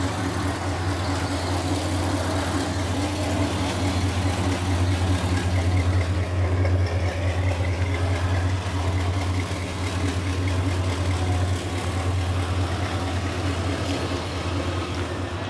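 A car engine idling steadily, with a low hum that holds even throughout and swells slightly in the middle.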